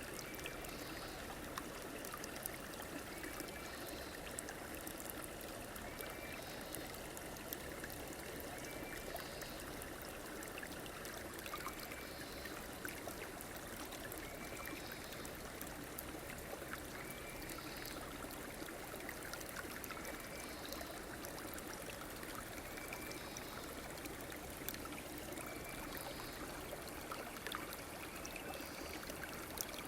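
A river flowing and trickling steadily. A short high call repeats about every two seconds.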